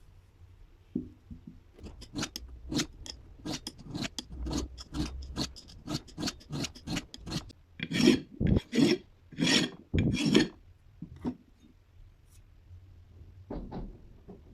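Repeated rasping or scraping strokes, about three a second at first, then slower, longer and louder strokes for a few seconds, stopping, with two more strokes near the end.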